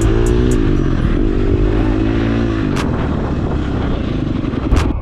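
KTM 350 dirt bike's single-cylinder four-stroke engine revving up and down as it is ridden, with a few sharp knocks, the loudest near the end.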